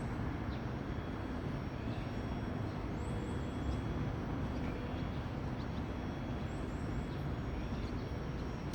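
Steady outdoor background rumble and hiss, like distant traffic, with a few faint, high, short chirps in small groups.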